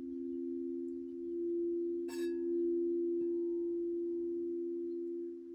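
Two singing bowls sustaining a steady two-note drone with a slow swell. About two seconds in, a single bright chime is struck and rings out over it.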